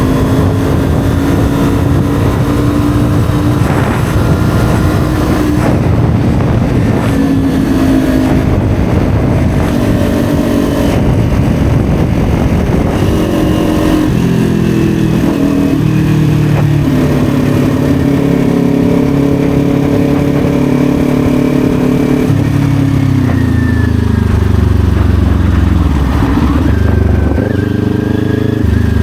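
Kawasaki Ninja 400's parallel-twin engine running on the move, over a steady rush of wind and road noise. The engine note holds fairly even at first, then steps down in pitch about halfway through, drops again later, and dips and picks up near the end.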